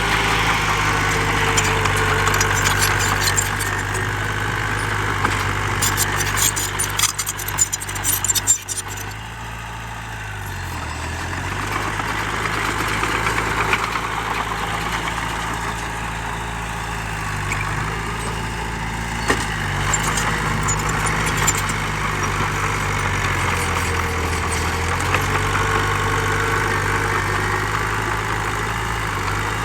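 The diesel engine of heavy earthmoving machinery runs steadily, its pitch dipping a few times. About six to nine seconds in comes a spell of rattling and clattering.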